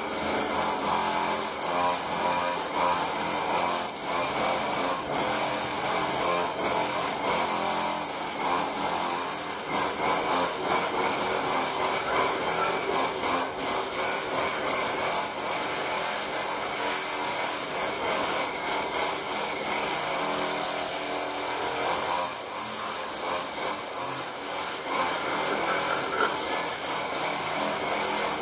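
A power tool running continuously through a workpiece, with a steady high-pitched whine and grinding noise.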